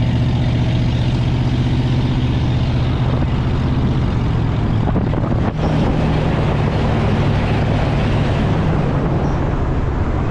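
Pickup truck being driven, its engine running steadily under a wash of road noise, with a brief dip about halfway through.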